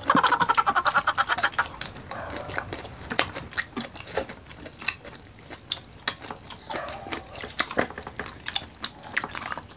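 Close-miked eating sounds: wet chewing and lip smacks of people eating juicy watermelon, a rapid run of small clicks. A short high-pitched vocal sound sits at the start.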